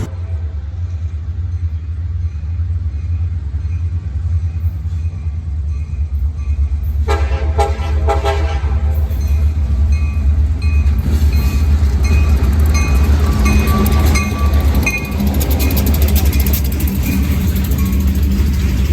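Train, most likely diesel-powered, running past with a steady low rumble. A horn sounds for about two seconds some seven seconds in, while a bell rings about twice a second until about fifteen seconds in.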